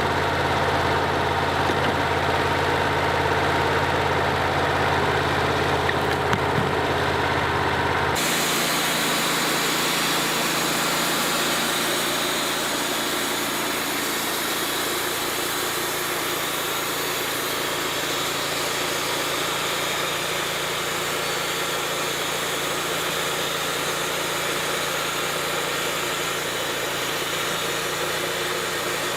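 An engine running steadily. About eight seconds in, the sound changes abruptly from a strong low hum to a lighter, hissier running sound.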